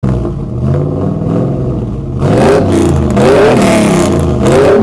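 A vehicle engine running steadily, then revved repeatedly from about two seconds in, its pitch rising and falling with each blip of the throttle.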